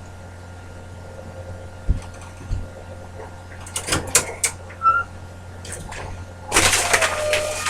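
Scattered knocks and clattering rattles over a steady low electrical hum, with a louder stretch of rattling and a short squeak near the end.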